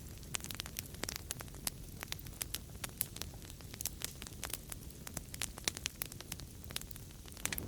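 Wood fire crackling in a fireplace: many irregular sharp pops and snaps over a steady low rumble of burning.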